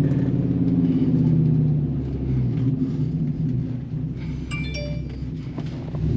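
Dodge Ram SRT-10's 8.3-litre V10 with an aftermarket exhaust running while driving, a low drone that drops in level about two seconds in. A short high chime-like tone sounds about four and a half seconds in.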